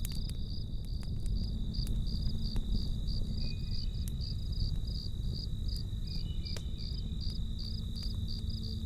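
Crickets chirping in a steady, even rhythm of about three to four chirps a second over the low rumble of a campfire, with scattered sharp crackles and pops from the burning wood.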